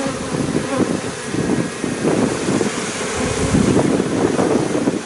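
Strong wind buffeting the microphone in uneven, rumbling gusts, with a hiss over it, as a thunderstorm's wind picks up.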